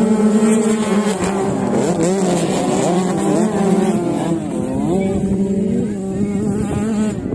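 Several motocross bikes' engines revving and accelerating together: a steady engine note at first, then from about a second in many overlapping engine pitches rising and falling as the riders work the throttles.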